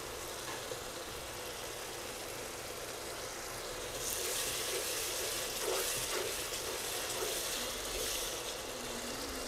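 Onion-and-spice masala paste sizzling in oil in a kadai as it is fried down, stirred with a wooden spatula. The sizzle grows louder from about four seconds in and eases back shortly before the end.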